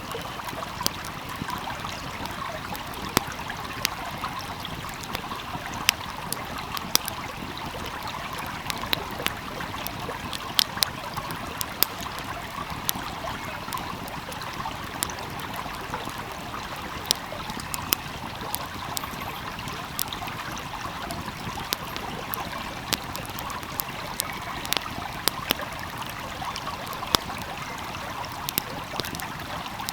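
Wood fire crackling, with sharp irregular pops several times a second, over a small stream flowing and trickling steadily.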